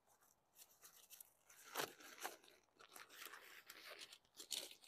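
Faint rustling with a few light clacks as aluminium tent poles are taken out and handled, starting about half a second in.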